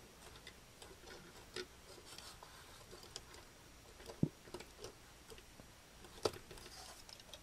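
Faint clicks and taps of small plastic model-kit parts being handled and fitted: the lion-mane piece of a GaoGaiGar kit being tried in its socket, with two sharper clicks about four and six seconds in.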